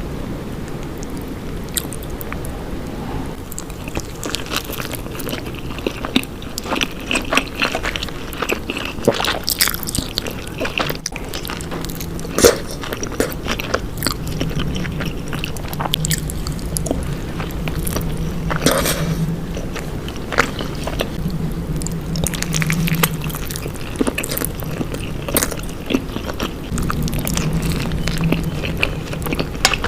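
Close-miked eating sounds: biting and chewing cheesy food, with many scattered crunches and clicks.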